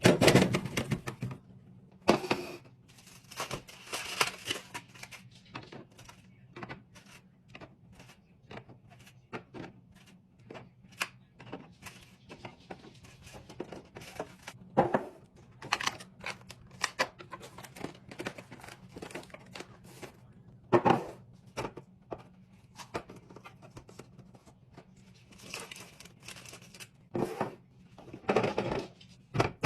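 Hands restocking a refrigerator: many quick clicks and taps of plastic containers and packages being set down and handled, with a few louder bursts of crinkling or tearing packaging.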